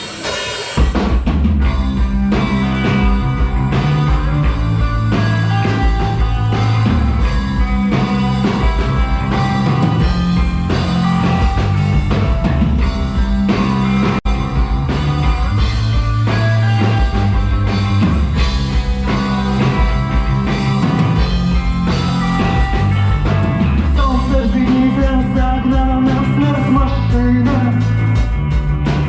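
Rock band playing live: an instrumental passage with a steady drum-kit beat under a moving bass line. The sound cuts out for an instant about halfway through.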